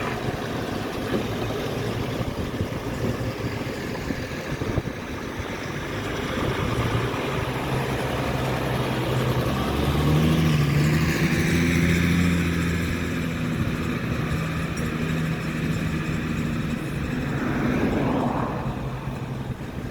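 Vehicles passing along a road, with noise throughout. One engine's low, steady hum grows louder, is loudest about halfway through, then fades. A shorter rise and fall of another vehicle comes near the end.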